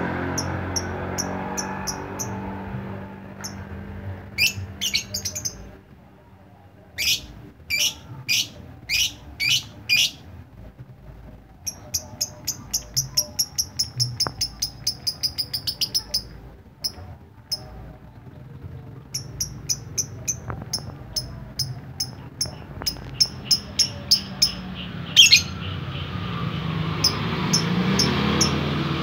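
Lovebird singing in the 'ngetik' style: a few longer, stronger chirps, then a fast run of short, clipped chirps like typing, several a second.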